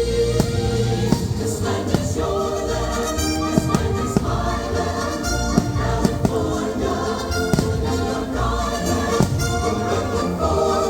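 Choir singing the fireworks show's music, with sharp firework bangs going off about once a second over it.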